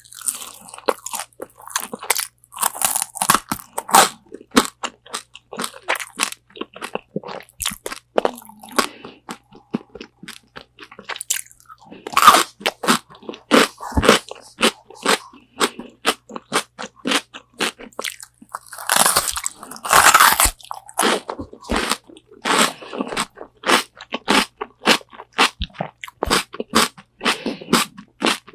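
Close-miked eating of crispy Korean fried chicken wings: bites into the crunchy battered skin and steady chewing, a dense run of irregular crackly crunches with heavier bursts of crunching a few times.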